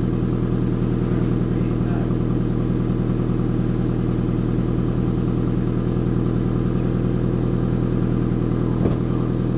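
1994 Toyota Celica GT's 2.2-litre four-cylinder engine idling steadily after a cold start, through an exhaust with the resonator deleted and the stock muffler kept. A brief click about nine seconds in.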